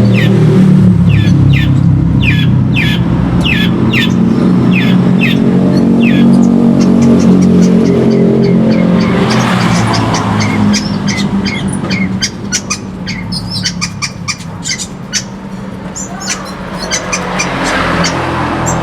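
Long-tailed shrike (pentet) calling: a run of sharp chips about two a second, then a fast, dense stretch of clicking, chattering notes. All of it sits over a loud, steady low hum.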